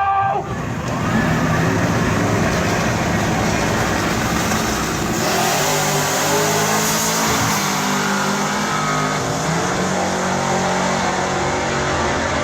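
Two drag racing cars launching side by side and accelerating hard down the strip at full throttle, the loud engine and exhaust noise starting about half a second in and staying loud throughout. One of them is a Corvette.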